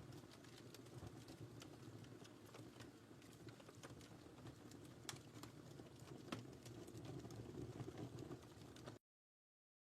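Wood fire crackling in a fireplace: a soft steady rumble of flame with irregular sharp pops and snaps, one louder pop a little past the middle. The sound cuts off abruptly about a second before the end.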